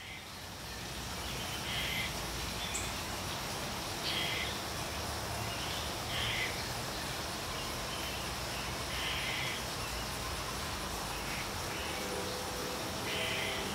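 Short, raspy bird calls repeated every second or two, over steady outdoor background noise.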